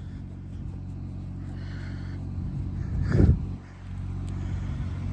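An engine running steadily with a low, even hum, with one brief louder surge about three seconds in.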